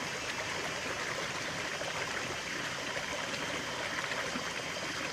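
Running water of a stream, a steady babbling and trickling rush.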